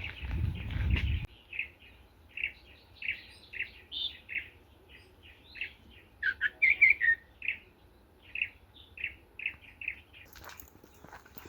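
A songbird calling: a series of short, high chirps, about two a second, with a louder quick flurry about six or seven seconds in. A rustling noise opens the clip and cuts off abruptly about a second in.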